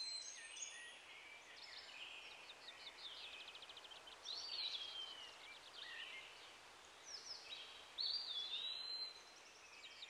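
Small songbirds calling and singing: short whistled notes that slide up and down and quick rattling trills, over a light hiss of open countryside. The calls are loudest about four and eight seconds in.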